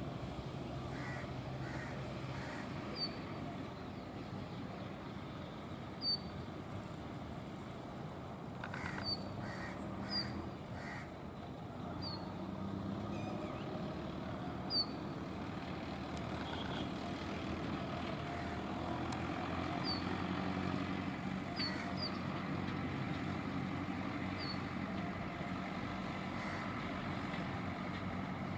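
Brown rock chat (Indian chat) giving short, high, falling chirp calls, one at a time at irregular intervals, about ten in all, over a steady low rumble.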